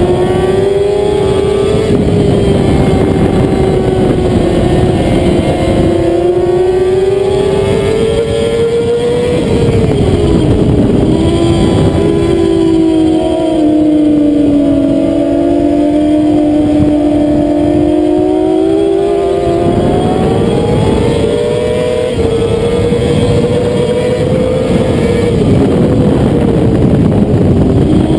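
Middleweight racing motorcycle's engine at full race pace, heard from an onboard camera: the revs stay high, drop sharply about ten seconds in and again near the end, then climb back up, with a constant rush of wind noise underneath.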